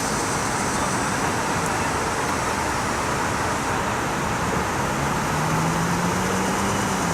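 Heavy thunderstorm rain falling steadily, an even hiss with no thunderclap; a low steady hum comes in about five seconds in.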